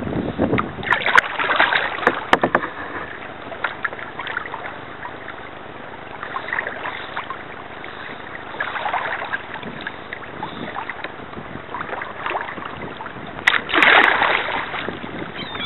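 Kayak paddle strokes splashing and swishing through water, a stroke every few seconds with the loudest splash near the end, with a few sharp knocks early on. The sound is dull, picked up by a keychain camera's small microphone.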